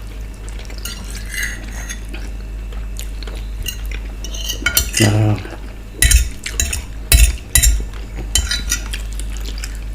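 Cutlery scraping and clinking against a plate while eating, with a cluster of sharp clinks from about six to eight seconds in. A brief vocal sound about halfway through.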